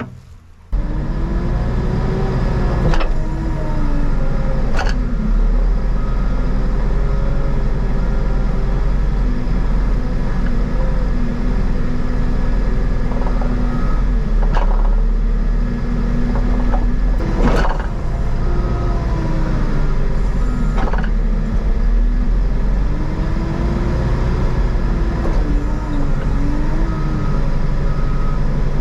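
An engine running steadily, its pitch slowly rising and falling, with a few sharp knocks.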